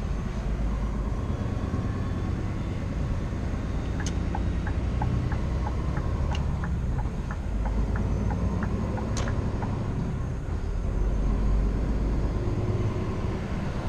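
Steady low rumble of a Scania R490 truck's 13-litre straight-six diesel and road noise from inside the cab while driving. A sharp click about four seconds in starts the turn-signal indicator ticking evenly, about three ticks a second, and a second click about five seconds later stops it.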